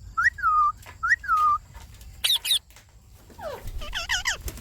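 Indian ringneck parakeet calling. It gives two whistled calls that rise and then fall, a pair of sharp high squawks about two seconds in, and a run of quick chattering notes near the end.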